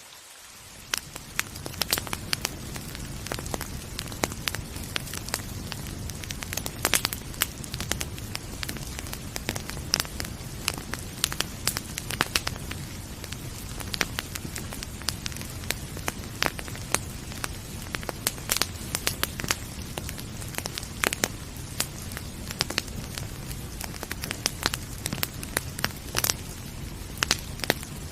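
Wood fire crackling, with frequent sharp pops and snaps over a steady rain hiss and a low rumble. It fades in over the first second.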